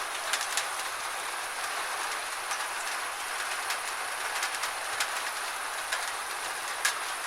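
Gentle steady rain, with individual drops ticking sharply at an irregular pace over the even hiss.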